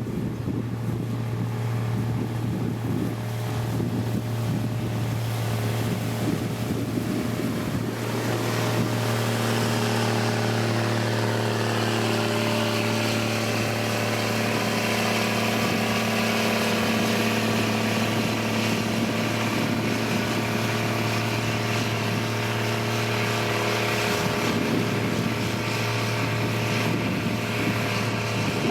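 Heavy diesel engine of road-construction machinery running steadily, with a deep even hum; about eight seconds in it works harder, the note fuller and busier.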